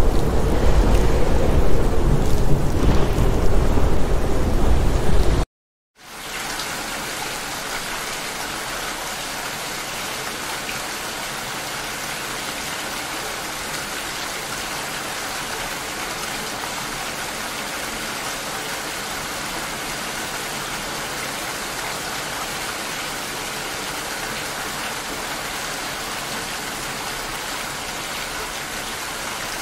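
Heavy rain with a deep rumble of thunder, which cuts off abruptly about five seconds in. After a moment of silence, steady rain falls with an even hiss.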